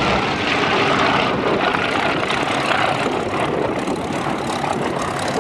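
Propeller aircraft's piston engine running steadily and loudly, easing off a little around the middle.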